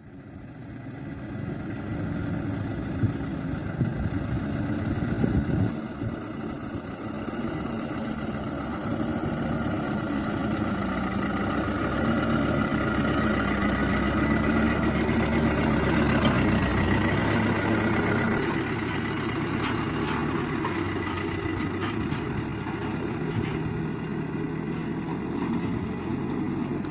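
Hino truck's diesel engine running steadily, building up over the first couple of seconds, with a change in its tone about two-thirds of the way through.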